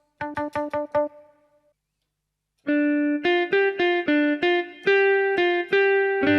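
Casio keyboard's guitar tone from its AiX sound source, played on the keys: about five quick repeated notes on one pitch, a short pause, then a run of about a dozen notes stepping between a few pitches.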